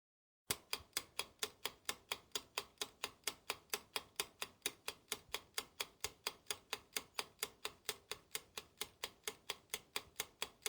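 Ticking clock sound effect, like a quiz countdown timer: sharp, even ticks about four or five a second that start about half a second in and stop abruptly.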